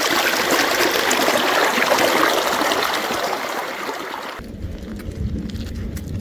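A steady rushing, hissing noise like running water, which cuts off abruptly about four seconds in and gives way to a low rumble.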